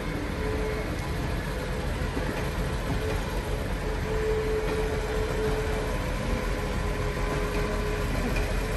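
Diesel railcar running with a steady low rumble and a faint whine that comes and goes.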